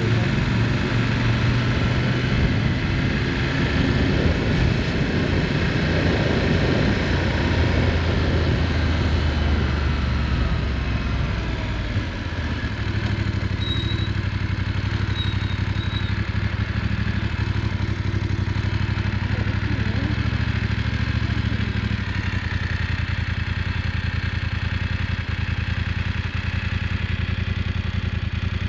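Motorcycle engine running on the move, with a steady rush of wind and road noise; the engine note changes about twelve seconds in.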